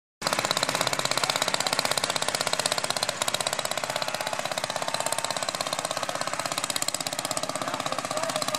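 Antique tractor engine running with a rapid, even train of exhaust pulses. It cuts in abruptly a quarter second in and holds steady.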